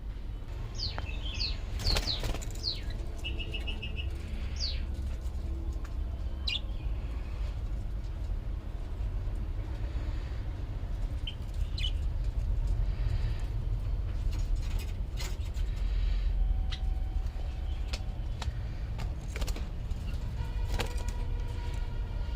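Small birds chirping, with several quick downward-sliding calls and a short trill in the first few seconds and a few more scattered later. Underneath runs a steady low rumble, with occasional clicks and knocks.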